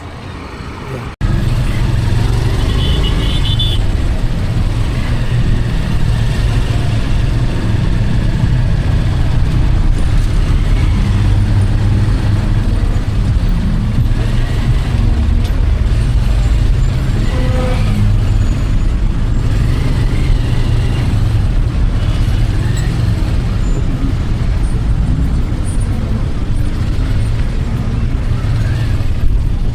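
Road noise of a vehicle travelling on a highway: a loud, steady low rumble that starts suddenly about a second in.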